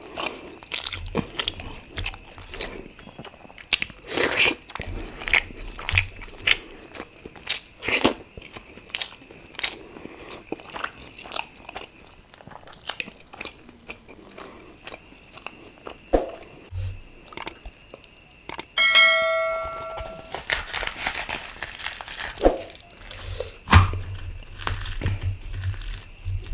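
Close-miked eating: biting and chewing of puffed luchi (deep-fried puri) with potato curry, with wet smacking mouth clicks throughout. A short ringing tone sounds about two-thirds of the way through.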